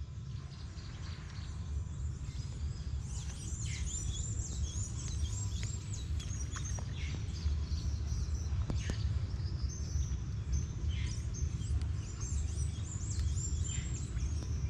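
Small birds chirping and calling throughout in quick, high, falling notes, over a steady low rumble.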